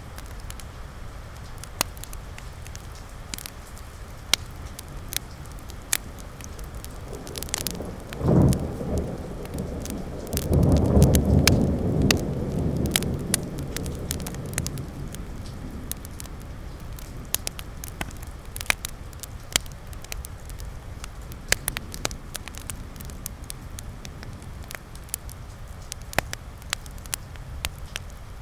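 Fireplace crackling with frequent sharp pops, over a steady patter of rain. A low rumble swells about eight seconds in, peaks a couple of seconds later and fades over several seconds.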